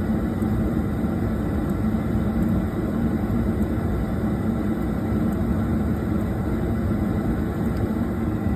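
Two-stage Trane LP gas furnace running on low-stage fire, a steady burner and fan noise, while its gas valve pressure is being trimmed down toward about 6 inches of water column.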